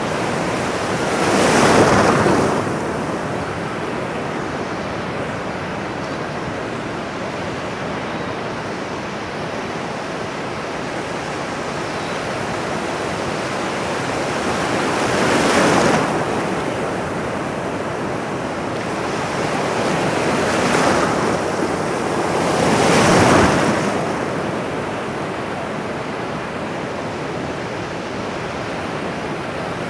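Ocean waves breaking on a shore: a steady wash of surf with four louder waves, about two seconds in, near the middle, and two close together in the last third.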